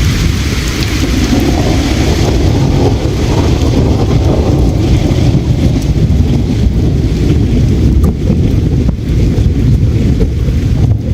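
River water flowing, a loud steady rushing noise heaviest in the low end.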